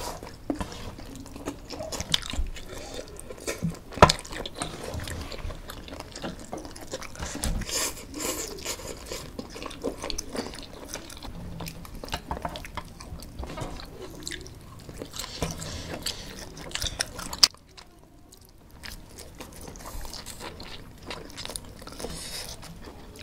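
Close-up chewing and crunching of fried chicken and noodles, with sharp clicks and scrapes of chopsticks against a metal baking tray.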